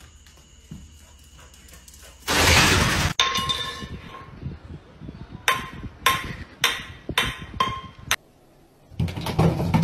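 A run of about six sharp clinks, roughly two a second, each with a short ring, after a brief loud rush of noise.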